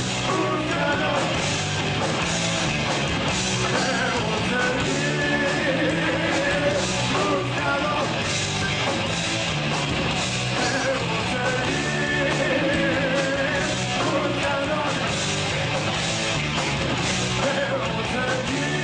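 Rock band playing with a sung vocal line, drums and distorted guitars.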